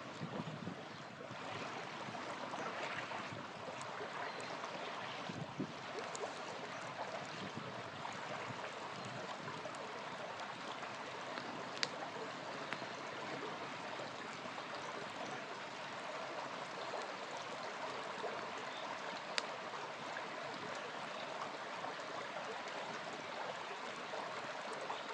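A small river flowing steadily, with a few sharp campfire crackles over it, the loudest about twelve seconds in and again near twenty.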